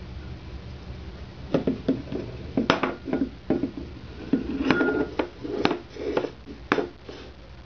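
Irregular clattering knocks and clinks, like a dish or bowl being knocked about on a hard surface, for about five seconds before dying away.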